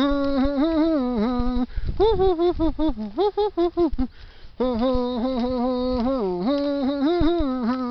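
A person's voice singing a wordless tune in held notes that step up and down in pitch, breaking off briefly twice.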